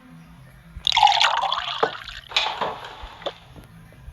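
Liquid pouring or splashing in two bursts, about a second in and again past the middle.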